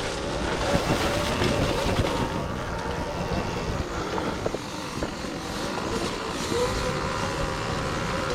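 Electric off-road motorcycles being ridden over a dirt trail: a faint motor whine that rises and falls, mixed with tyre and suspension noise, small knocks, and rumble on the microphone.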